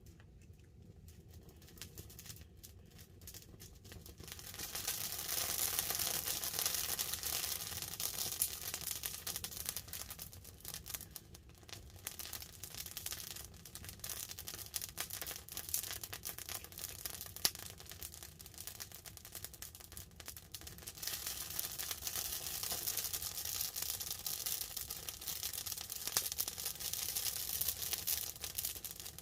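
Wood campfire crackling and hissing, with dense irregular pops and snaps. It grows louder about four seconds in and again around twenty seconds in. Light rain falls on the tarp overhead.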